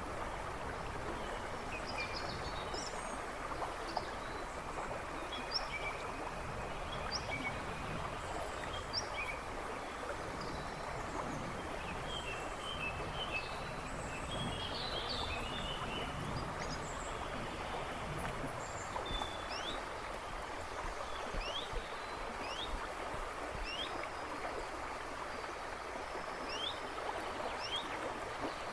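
A river babbling and rushing steadily over stones, with birds chirping in the woods. Partway through, one bird repeats a short high note about once a second.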